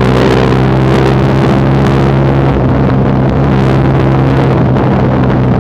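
TVS Apache RTR 160 4V single-cylinder motorcycle engine idling steadily and loudly through a newly fitted aftermarket full-system exhaust.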